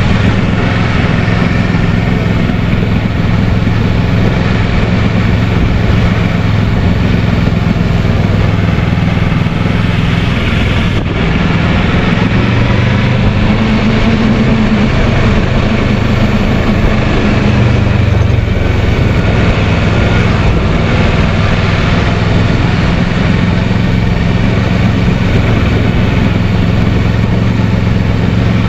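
Kawasaki Versys 650 parallel-twin engine running steadily as the motorcycle is ridden, with a brief rise and fall in engine pitch about halfway through, under a steady rush of wind noise.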